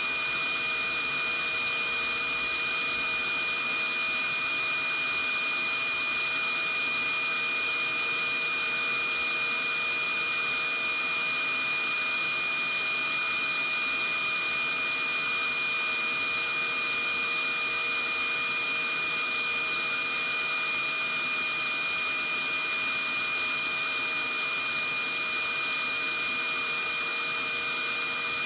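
Vacuum cleaner running steadily: a constant rushing of air with a steady high-pitched whine and a few fainter fixed tones, unchanging throughout.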